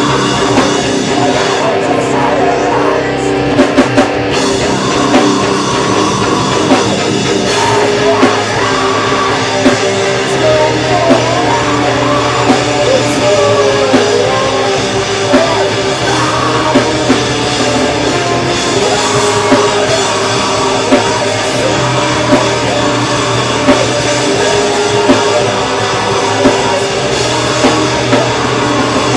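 Live metalcore band playing loud: distorted electric guitars over a drum kit, with regular sharp drum hits.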